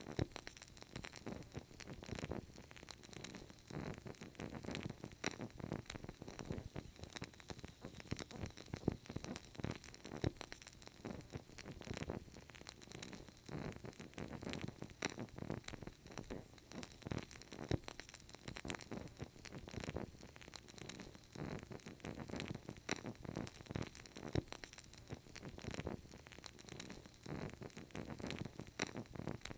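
Burning candle crackling: a steady run of many small, faint pops and clicks with no pauses.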